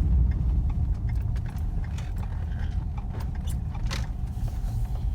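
Low, steady road rumble of a car driving, with small scattered clicks and rattles.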